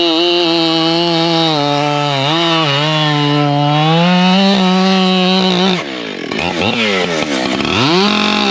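Husqvarna 592 chainsaw running at high revs through a cut, its pitch sagging slightly under load and picking back up. About six seconds in the revs drop steeply and then climb back.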